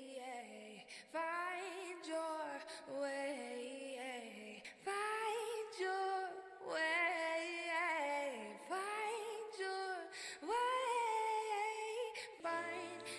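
Meditation-style background music carried by a woman's voice singing long, wavering held notes. A low sustained chord comes in near the end.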